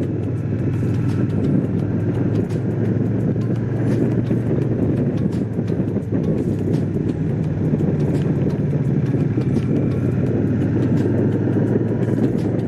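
Honda CX500's liquid-cooled V-twin engine running steadily while riding, its note holding at an even pitch.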